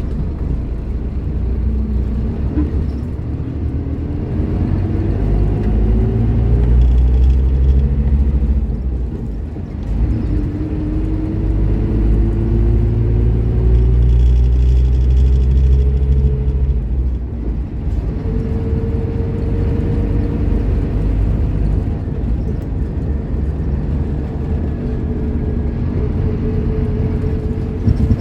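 Scania K310IB bus's diesel engine pulling under load, its pitch rising as the bus accelerates, with two gear changes where the pitch drops and builds again. After that it runs on at a fairly steady, higher note.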